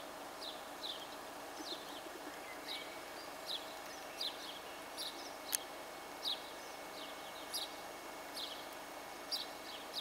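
Small birds chirping: short, high chirps falling in pitch, one or two a second, over a steady faint background hiss. One sharp click about halfway through.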